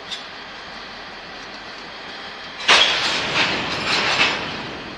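Canadian Pacific EMD diesel locomotives and freight cars moving slowly, a steady rumble of rolling stock. About three seconds in comes a sudden loud burst of noise lasting under two seconds, with a few sharper peaks.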